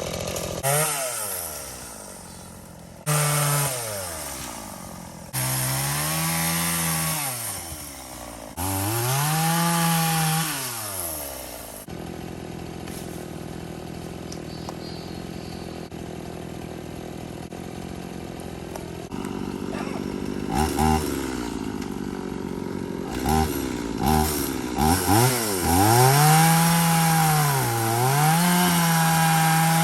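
Gas chainsaw engine revving up and dropping back over and over as it cuts into wood, with a steadier low-running stretch in the middle.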